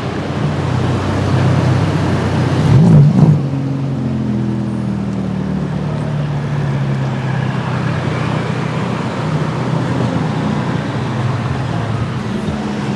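A car engine running at low revs amid street traffic, with a short rev about three seconds in, then running steadily.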